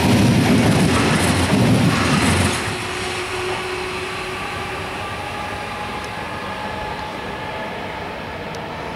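ICE 3 high-speed electric train passing close by, with loud running and wheel noise until its last car goes by about two and a half seconds in. The sound then drops to a fainter running noise with a steady whine as the train moves away.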